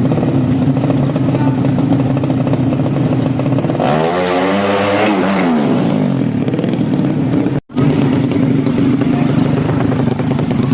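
Racing motorcycle engine running at a steady fast idle, revved up and back down once about four seconds in. The sound cuts out for an instant near the middle, then the engine carries on running.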